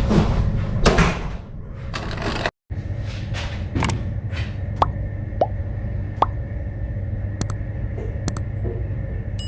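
Steady low machinery hum in a laundry room, with soft handling sounds at first and then scattered short knocks and clicks, like machine doors and controls being worked. The sound breaks off for a moment about two and a half seconds in.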